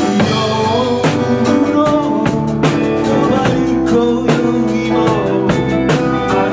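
Live band playing a song: guitar over a steady drum-kit beat.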